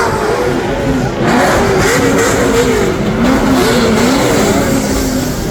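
Drift car engines revving hard on the track, their pitch rising and falling again and again as the throttle is worked.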